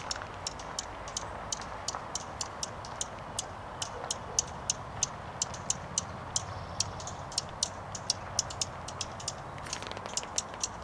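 Adult songbird giving a steady series of short, high alarm chirps, about three a second: a parent bird agitated over its fledgling out of the nest.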